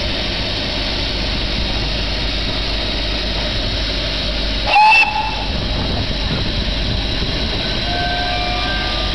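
A train ride's steady running noise, with one short, loud blast of a steam locomotive's whistle about halfway through.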